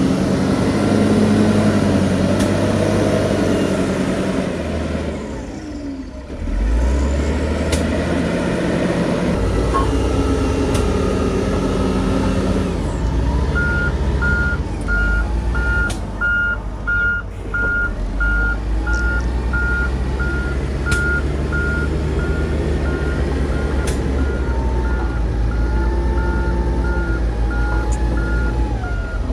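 Heavy diesel earthmoving machinery running with a low rumble that drops briefly about six seconds in and then comes back up. From about halfway a reversing alarm beeps steadily, about one and a half beeps a second, as a machine backs up.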